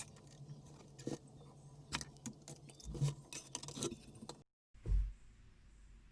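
Scattered small clinks and clicks over a steady low hum; the sound cuts out completely about four and a half seconds in, and a single dull thump follows.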